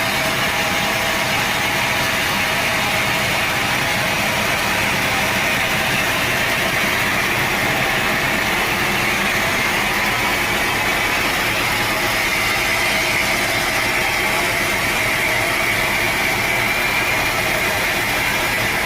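Sawmill saw and machinery running steadily, with a high whine that rises slightly in pitch past the middle.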